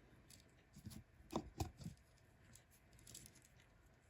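Near silence, with a few faint taps and clicks of wires and LED leads being handled about a second in, and a faint rustle near the end.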